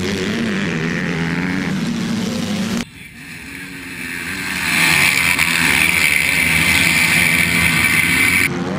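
Motocross motorcycle engines running at race speed. About three seconds in, the sound cuts abruptly to a new shot where a bike's high-revving engine grows louder and holds loud and steady. It cuts off sharply again near the end.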